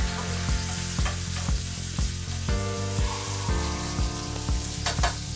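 Cherry tomatoes, scallions and garlic sizzling steadily in hot olive oil in a nonstick frying pan, with a spatula stirring and scraping them around the pan.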